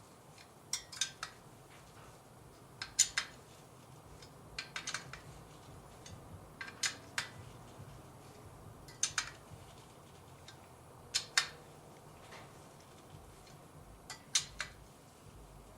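Nut driver clinking against small screws and the metal HEI distributor housing as the screws are snugged down, in short clusters of sharp metallic clicks about every two seconds.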